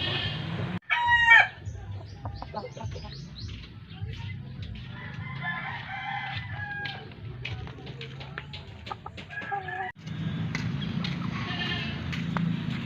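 Gamecock rooster crowing: one loud crow about a second in, then shorter calls and clucks with scattered clicks until an abrupt cut near the end.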